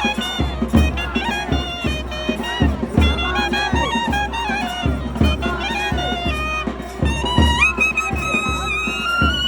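Temple procession music: a nadaswaram, a South Indian double-reed horn, playing a winding melody over sharp thavil drum strokes, gliding up to a long held note near the end.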